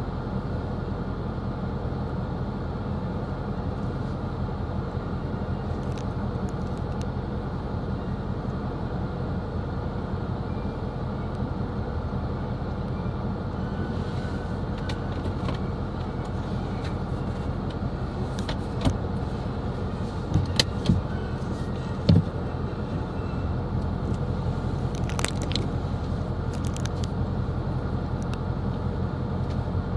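Steady engine and road-noise rumble inside a moving car's cabin, with a low even hum. A few short sharp clicks stand out about two-thirds of the way through.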